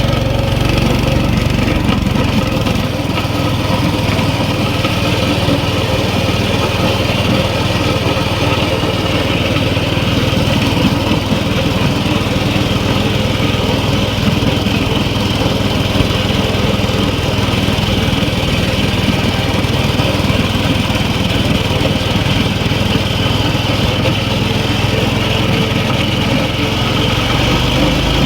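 Mini bike's small gasoline engine running at a steady speed.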